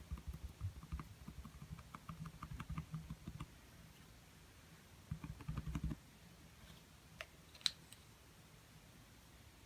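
Quick, light tapping of a paintbrush dabbing on a small acrylic canvas, in two runs: one of about three and a half seconds, then a second short run of about a second. A single sharp click comes near the end.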